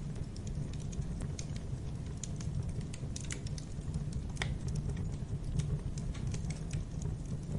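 Wood fire crackling in a fireplace: irregular sharp pops and snaps over a steady low rumble of the flames, with one louder pop about four and a half seconds in.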